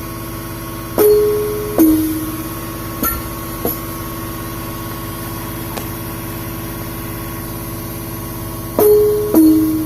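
Roland SPD-20 electronic percussion pad played with a few sharp hits, each sounding a short pitched note that alternates between a higher and a lower tone. The hits sit over a continuous droning, buzzy tone.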